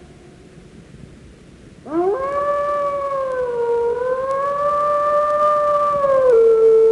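A dog howling. After a short pause, one long howl starts about two seconds in, sliding up in pitch and held with a slight waver. It then steps down to a lower, steady note near the end.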